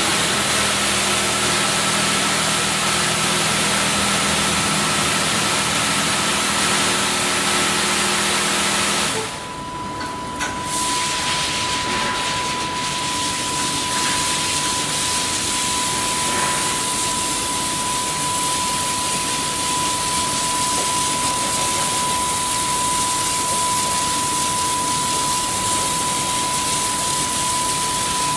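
Automatic car wash machine running: a steady hiss of high-pressure water spray over a low machine hum. After a brief drop about nine seconds in, the spray hiss goes on with a steady high whine.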